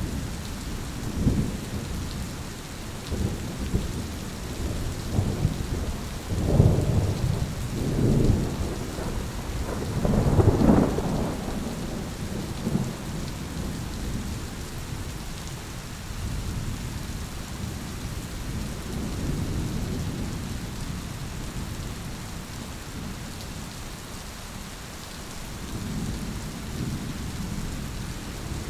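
Thunderstorm: steady rain with rolling thunder. Several low rumbles swell and fade, the loudest about ten seconds in, then die back to fainter rumbling under the rain.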